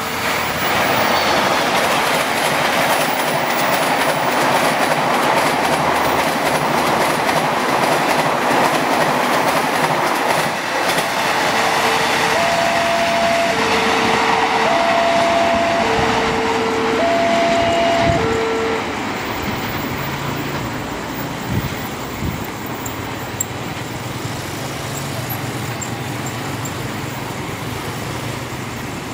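A train passing close by, its wheels clattering loudly on the rails for about the first eighteen seconds, then fading. Over it the level crossing's electronic warning alarm alternates between two notes, heard at the start and again from about twelve to nineteen seconds in. Near the end, motorcycle engines run low as they cross the tracks.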